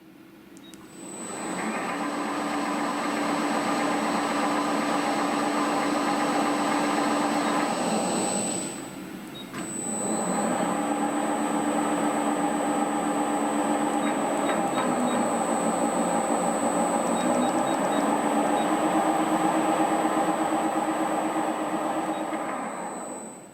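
Lagun G-Cosmos 20 CNC bed mill running under power: a steady machine hum with a thin high whine. The sound drops away briefly about nine seconds in, then starts again, and the hum's pitch shifts a few times later on.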